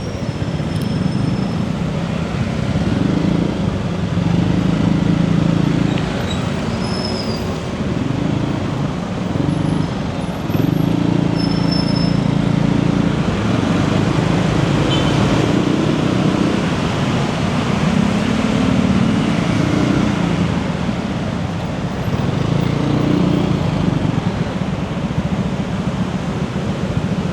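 Scooter engine running as a motorbike taxi rides through city traffic, its low note rising and falling in stretches of a few seconds, with a steady rush of road and traffic noise.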